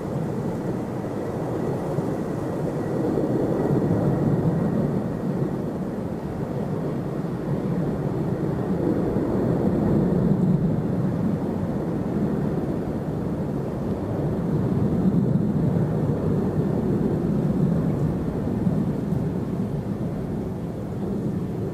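Jet airliner engines running, a continuous rumble that swells and eases several times, with a faint high whine over the first few seconds that fades out.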